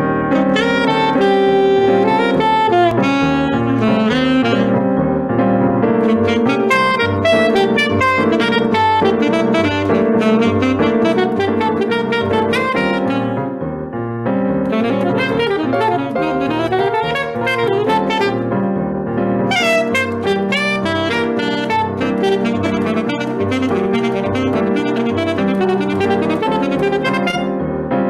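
Saxophone playing a melody over piano accompaniment, with a short lull about halfway through.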